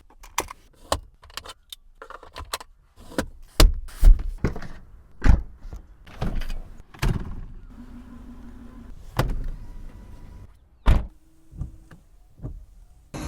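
Clicks, latches and thunks from a Japanese-market car's fittings, irregular and closely spaced, with the heaviest knocks about four and five seconds in. Two short electric motor hums, like a power window or mirror motor, come in about eight seconds in and again near the end.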